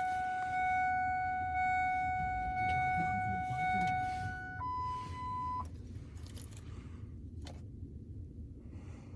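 A steady, high electronic warning tone sounds for several seconds, then changes to a higher tone for about a second and stops, over a constant low rumble. The rumble carries on more quietly after the tones stop.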